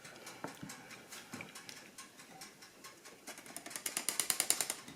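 Light clicks of a kitchen utensil against a mixing bowl, turning into a quick run of about ten taps a second near the end as batter is worked and scraped.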